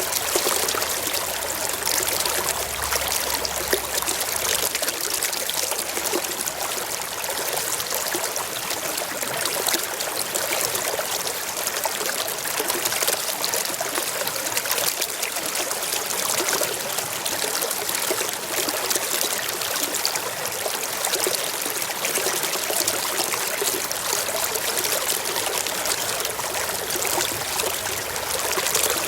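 A forest stream running over rocks: a steady rush and trickle of flowing water, mostly high and hissing with little low rumble.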